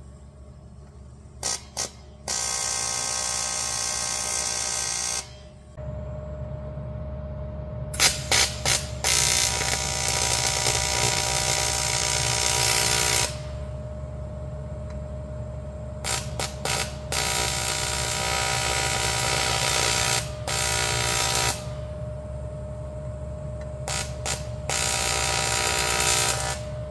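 Electric arc welding on cast iron: each time a few short crackling strikes catch the arc, then a steady buzzing crackle runs for one to four seconds before it stops, four times in all. A steady hum and a faint steady tone sound between the welds.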